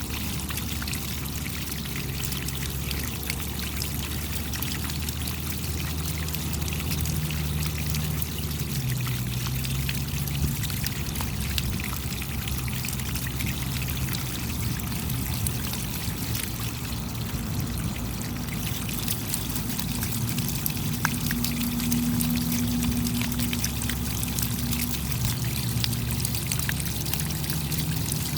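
Steady rain, with water pouring and trickling continuously and many individual drops ticking over it. A faint low hum shifts in pitch underneath.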